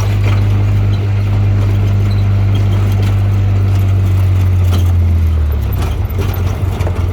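Off-road vehicle engine running at a steady speed, a loud low drone that turns rougher and less even about five and a half seconds in.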